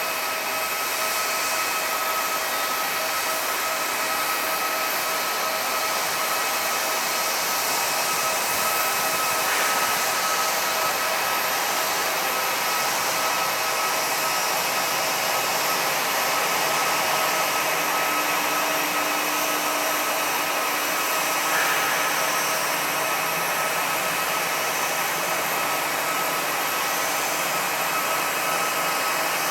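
Airbus A320 airliner on the ground giving a steady rushing hiss of jet and air noise with several high whine tones, holding level without rising or falling.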